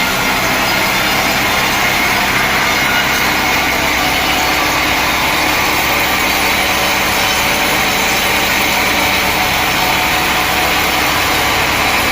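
Sawmill blade cutting steadily through a mahogany log, over the mill's constantly running motor.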